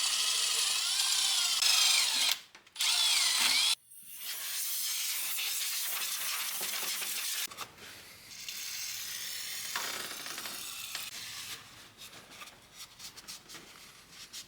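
A handheld power tool running in bursts: two loud runs in the first four seconds, its whine wavering in pitch under load, then a longer, quieter run, followed by light scraping and rubbing.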